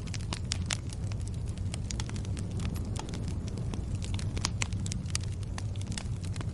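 Campfire burning, crackling with many irregular sharp pops over a steady low rumble.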